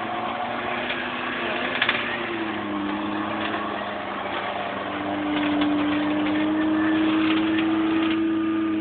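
Small off-road 4x4's engine running under load on a muddy course, its revs rising and getting louder about five seconds in. A brief sharp knock about two seconds in.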